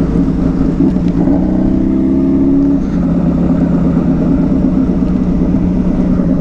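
Motorcycle engine running steadily while riding, under heavy wind rumble, with a brief rising engine note about one to three seconds in.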